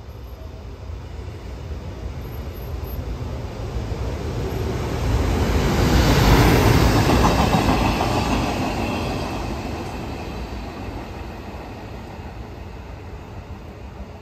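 EF510 electric locomotive hauling a freight train of flatcars loaded with rails, passing through without stopping. The noise of the locomotive and its wagons running past grows steadily, is loudest about six to seven seconds in as the locomotive goes by, then fades as the wagons pull away.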